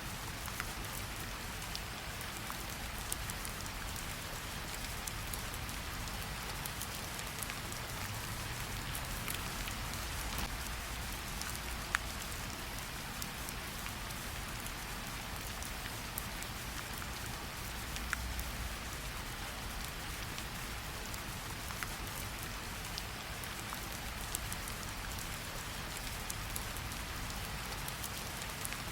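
Steady light rain pattering on tree leaves, with scattered individual drops ticking out of the hiss and a low rumble underneath.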